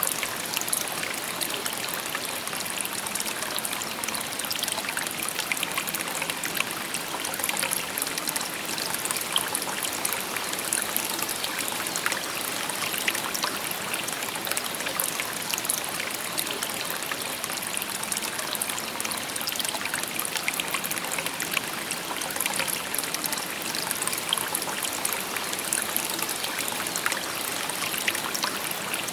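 A shallow river babbling and trickling over stones: a steady rush of water with many small splashes and gurgles.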